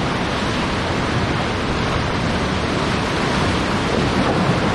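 Steady rush of whitewater rapids: river water churning over rocks around the raft.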